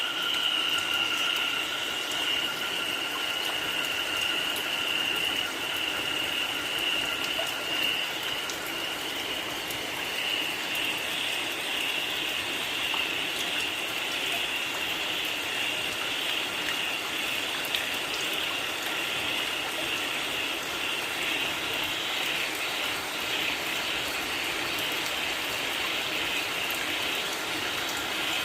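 Steady rain with a dense chorus of frogs calling, a continuous high-pitched trill over the hiss of the rain. A lower line of calls fades out about ten seconds in.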